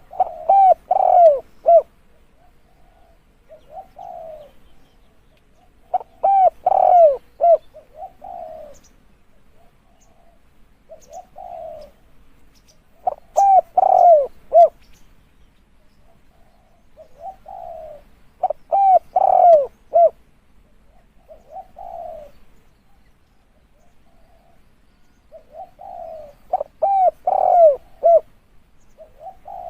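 Spotted dove cooing: a loud phrase of several quick coos repeats five times, about every six to seven seconds, with softer single coos in between.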